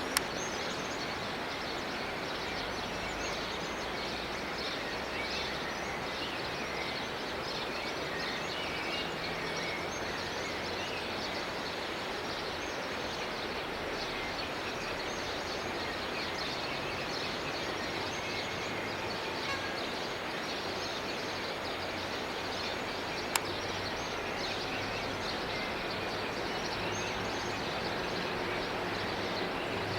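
Morning chorus of many birds chirping and calling over a steady background hiss, with two sharp clicks, one right at the start and one about 23 seconds in. A low hum builds near the end.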